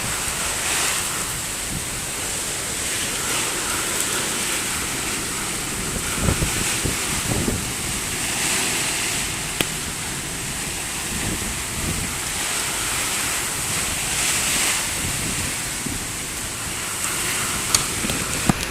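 Heavy rain falling steadily, with wind buffeting the microphone in irregular gusts and a few sharp clicks, one near the middle and two near the end.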